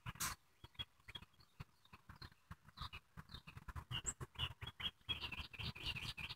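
Faint bird chirps, a quick run of short high notes in the last two seconds or so, over scattered soft clicks and rustles.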